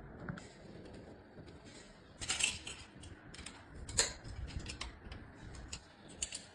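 Irregular metallic clicks and clinks of bicycle parts and hand tools being handled during assembly, the sharpest about two seconds and four seconds in.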